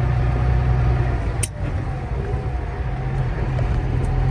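Volvo VNL truck heard from inside the cab, driving slowly on a gravel road: a steady low engine drone with road rumble. A sharp click comes about a second and a half in, after which the drone eases off a little and builds back up near the end.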